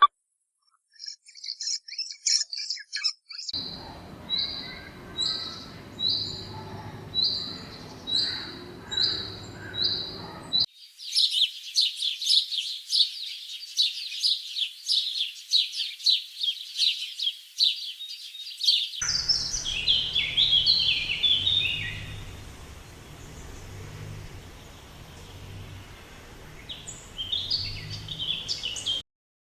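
Small birds singing and calling in several spliced recordings. First a few high chirps, then a repeated short call about one and a half times a second, then a dense rapid chattering. In the last third come falling chirpy phrases that repeat.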